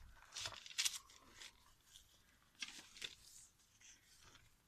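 Paper rustling as the mixed-paper pages and tags of a handmade journal are turned and handled. There are two bursts of crisp rustling, one about a second in and one near the three-second mark.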